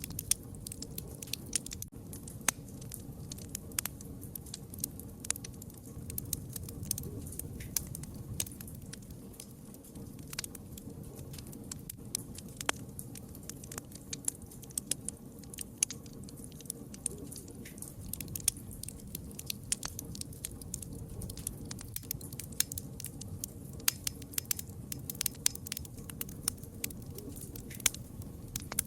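Wood fire burning: a steady low rush of flames with frequent irregular crackles and sharp pops of burning wood.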